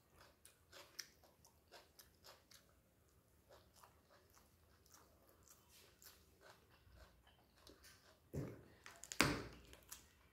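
Close-up mouth sounds of a person chewing rice and mashed vegetables eaten by hand: soft wet smacks and clicks, with two louder bursts of chewing or crunching about eight and nine seconds in.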